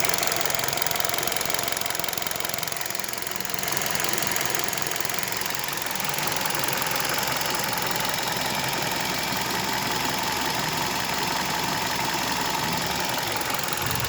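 Kia Rio's 1.6-litre four-cylinder petrol engine running warm, heard under the open hood, with a light knock coming from around the first and second cylinders. The owner does not know the cause and suspects the timing drive, a camshaft in its bearings or wear from the short piston skirts.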